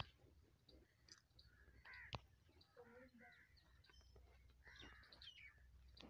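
Faint bird calls: a few short chirps and caws scattered through the quiet, with one sharp click about two seconds in.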